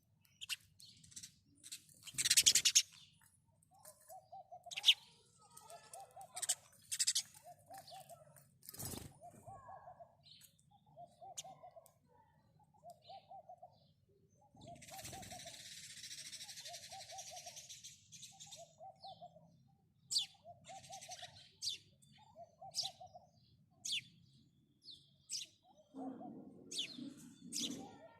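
House sparrows chirping in short, scattered chirps, over a low cooing call that repeats about once every second and a half. About halfway through comes a rushing noise lasting about four seconds.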